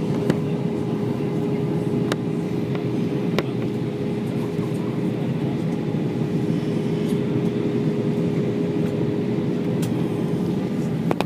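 Steady cabin noise inside an airliner on approach to land: the rush of engines and airflow, with a steady hum and a few faint clicks.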